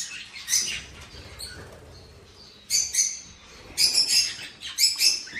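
Budgerigars chirping in quick clusters of short, high notes, sparse at first and busier from about halfway on.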